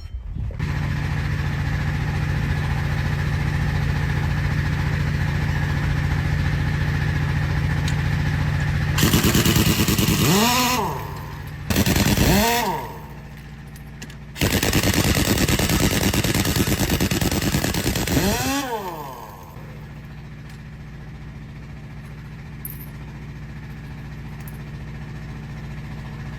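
A motor running steadily with a low hum, broken by three loud bursts of a high-speed motor or tool, each dropping in pitch as it winds down when let go.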